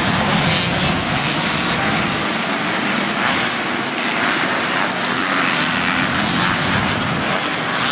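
Motocross motorcycle engines running loud and steady.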